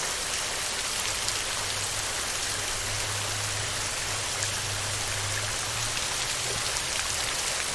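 Heavy rain falling steadily on a metal roof, a dense hiss with sharp ticks of single drops. A low rumble sits under it for a few seconds in the middle.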